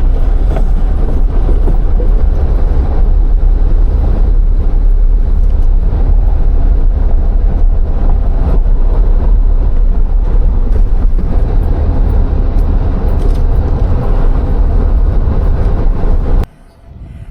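Car tyres rumbling and clattering over the loose wooden plank deck of a converted railroad bridge, heard loud through open windows, with a deep steady drone and many small knocks. It cuts off suddenly near the end.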